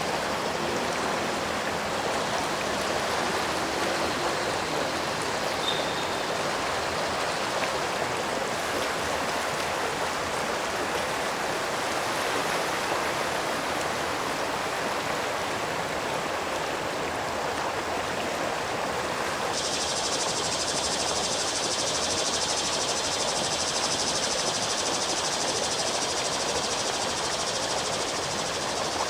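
Stream water flowing steadily with an even rushing sound. About two-thirds of the way in, a brighter, higher hiss cuts in abruptly and holds.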